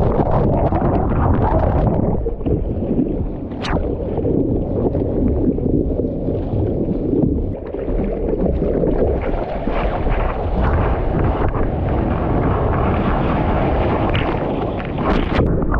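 Strong wind buffeting the microphone over rough pre-typhoon surf, a loud, steady rushing noise. A brief thin high sound cuts through about four seconds in.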